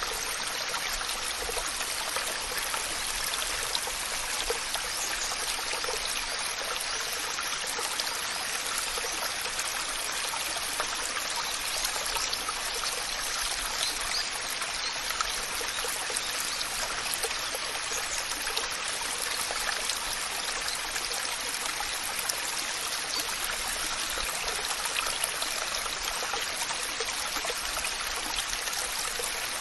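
Waterfall water falling and splashing: a steady, even rush with fine splashing throughout and little deep rumble.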